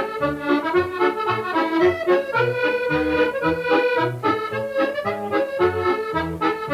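Accordion playing a lively traditional tune: a quick melody over bass notes sounding on a steady beat.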